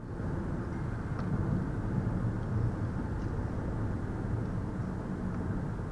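Steady low road and tyre rumble with engine noise inside the cabin of a moving 2020 Ford Escape SE.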